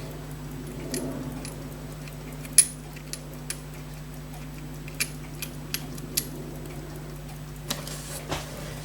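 Small, sharp metallic clicks and taps, scattered irregularly, from steel watchmaker's tools handling the tiny parts and screws of a pocket watch movement; one click about two and a half seconds in is louder than the rest. A steady low hum lies underneath.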